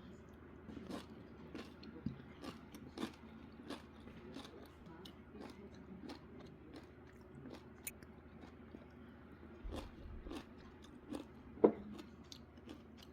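A person chewing and crunching food close to the microphone, with scattered light clicks and one sharp knock near the end.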